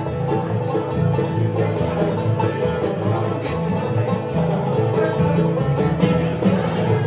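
Acoustic bluegrass band playing an instrumental passage, with banjo picking prominent over guitar and other strings.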